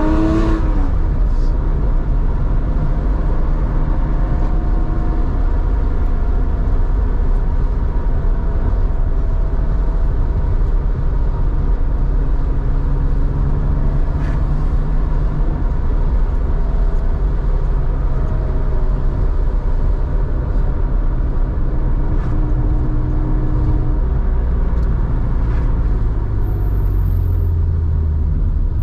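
Air-cooled 3.4-litre flat-six of a 1987 Porsche 911 through a two-into-one-out muffler, driving along. The revs top out right at the start, then the engine settles into a steady cruise with a low rumble.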